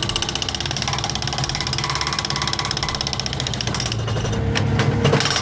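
Hydraulic rock breaker on a skid steer hammering concrete in a rapid, even rattle over the loader's running engine. The hammering stops about four seconds in, leaving the engine running.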